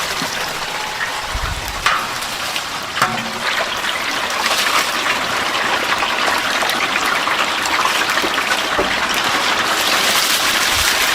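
Chicken deep-frying in a vat of hot oil: a steady, dense sizzle, with a couple of sharp clicks about two and three seconds in.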